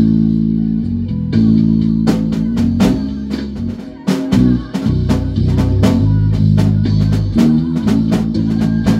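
A band rehearsing: bass guitar holding strong low notes under guitar, with a drum kit coming in about two seconds in and keeping a steady beat.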